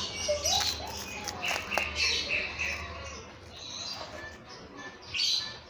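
Small birds chirping, with short rising and falling calls, over a low hum that fades out about three seconds in.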